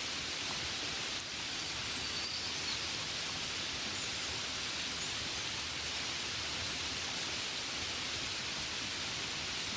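Steady gentle rainfall, an even hiss with no breaks.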